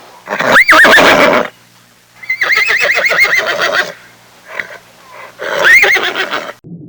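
A horse whinnying three times, each call rising sharply and then quavering; the middle whinny is the longest.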